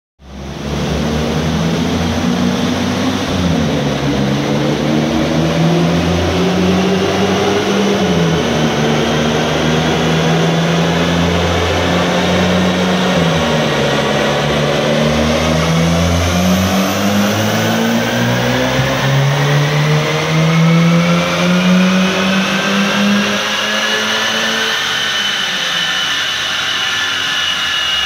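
A 2015 Volkswagen Golf R's turbocharged 2.0-litre four-cylinder engine making a full-throttle pull on a chassis dyno. The revs climb and drop back at three upshifts, then rise through one long pull in a higher gear before easing off near the end. A high whine from the tyres on the rollers climbs in pitch with speed.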